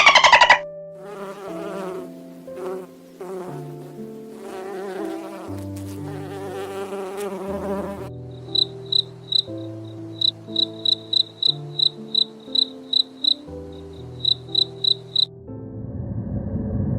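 An insect buzzing loudly for the first half-second, then high, short insect chirps repeating about three times a second over the second half, with a pause partway. Soft melodic background music plays throughout.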